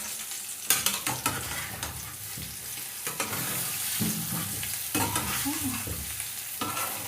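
Potatoes and onions frying in a pan with a steady sizzle, while a utensil scrapes and knocks against the pan as they are stirred. The knocks are loudest about a second in and come again a few times later.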